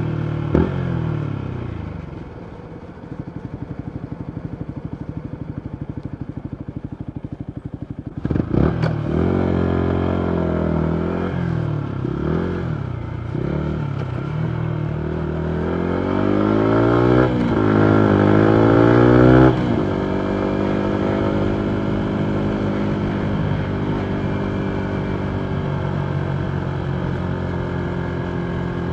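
2019 Yamaha MT125's single-cylinder 125 cc engine through a full Akrapovic exhaust. It slows with a sharp pop about half a second in, then idles for a few seconds. Near eight seconds a couple of cracks ring out as it pulls away, climbing in pitch through several gear changes, and then it settles into a steady cruise.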